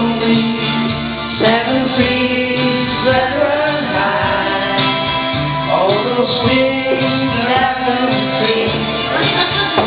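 A man singing a country-folk ballad over guitar accompaniment, holding long notes.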